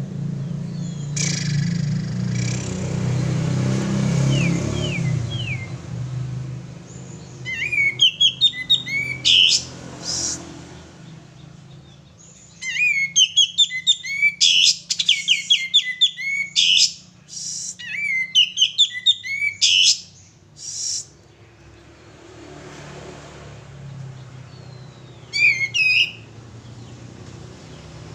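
Male kapas tembak songbird singing in loud bursts of rapid, chattering chirps and whistled notes, a few seconds apart, over a low steady hum.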